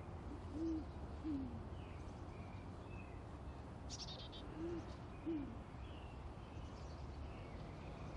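A bird's low two-note hooting call, given twice about four seconds apart, with faint high chirps in the background.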